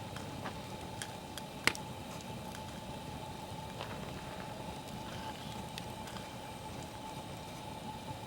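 Wood campfire crackling, with scattered small snaps and one loud sharp pop a little under two seconds in.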